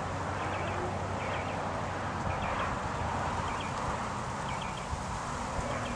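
Steady outdoor background hiss with faint, short high chirps recurring about once a second, typical of small birds calling in the distance.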